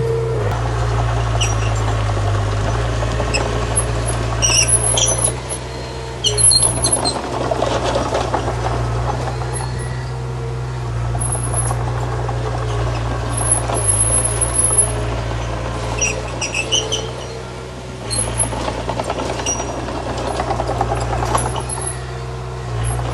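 Bulldozer engine running steadily, with clatter and repeated short high-pitched squeaks over it. The engine sound dips briefly twice.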